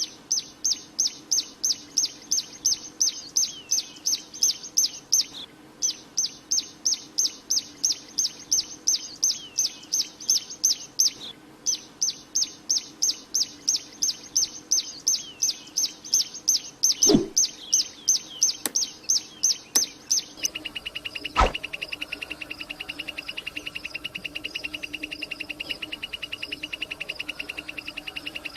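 A prinia (ciblek) singing a fast run of sharp, repeated chirping notes, about three a second, with two short breaks. About twenty seconds in, the song cuts off abruptly and a steady, faster, even trill takes over. There is a brief knock twice near the change.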